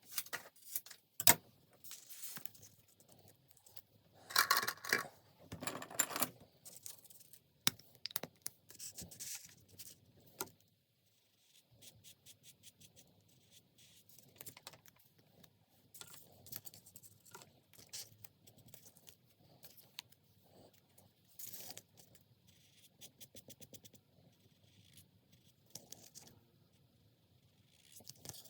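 Hands working paper and small craft tools: scattered clicks, taps and short rustling scrapes, busiest in the first several seconds.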